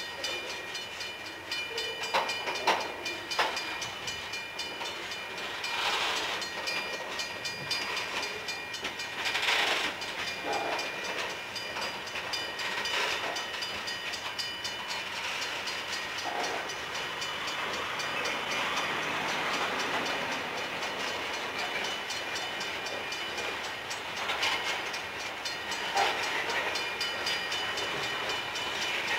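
Freight train of covered hopper cars rolling past close by: a steady rumble of steel wheels on rail, with irregular sharp clacks and knocks every few seconds as wheels cross rail joints.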